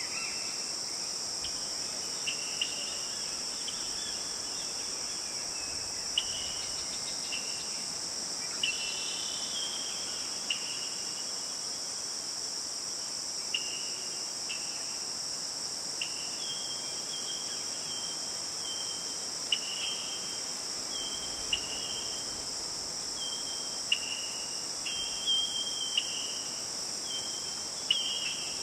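A steady, high-pitched insect chorus in a forest, with short sharp chirps repeating irregularly every second or so. The chirps come more often from about halfway through.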